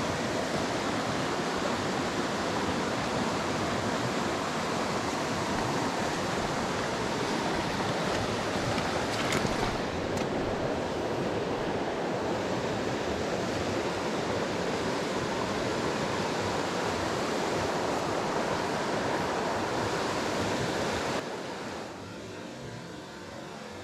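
Mountain stream water rushing steadily, with a couple of faint clicks about nine seconds in. Near the end the rush drops suddenly to a softer level.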